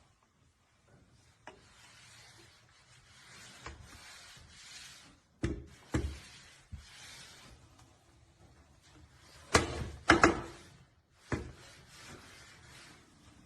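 Soft rubbing and scraping sounds, broken by a few sharp knocks, the loudest pair about ten seconds in.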